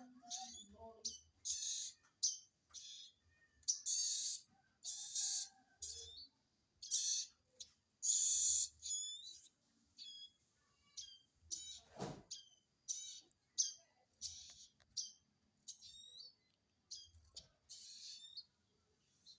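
Baby prenjak birds begging, a run of short raspy hissing calls mixed with brief high chirps, over and over. One sharp click about twelve seconds in.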